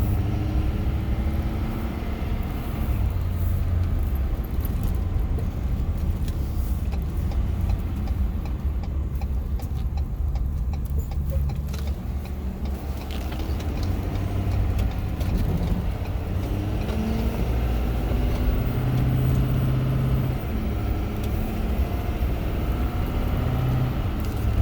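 Diesel box truck's engine and road noise heard from inside the cab while driving, a steady low rumble whose pitch shifts now and then, with light clicking and rattling in the cab.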